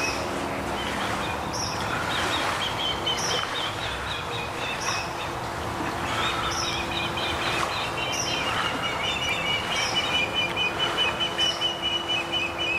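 Ospreys calling: long runs of rapid, high chirping whistles, with a short sharper note about every second and a half. A faint low steady hum runs underneath.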